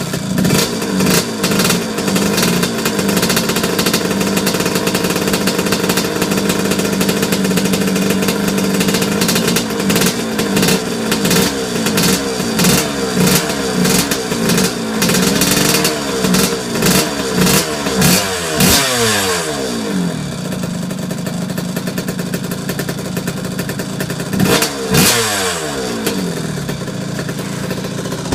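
Kawasaki KX125 two-stroke single-cylinder motocross engine running with a newly fitted exhaust pipe. It runs at a fast idle, then after about ten seconds gives a run of quick throttle blips, the pitch rising and falling, before settling to a lower, steadier idle with a couple more blips near the end.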